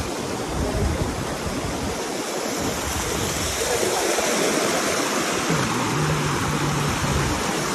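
Wind rushing and buffeting against the microphone, a steady noisy rush with irregular low rumbles, as when flying on a parasail.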